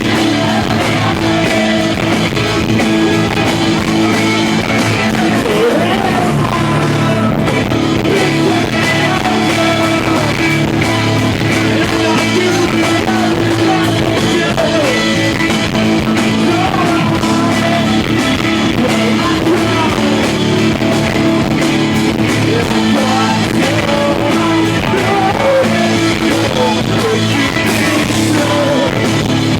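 Live rock band playing a song, with distorted electric guitars, drums and a shouted vocal, recorded from the crowd on a small handheld device.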